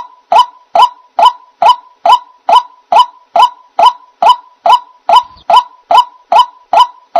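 White-breasted waterhen calling: a loud, monotonous run of short honking calls, a little over two a second, kept up at an even pace.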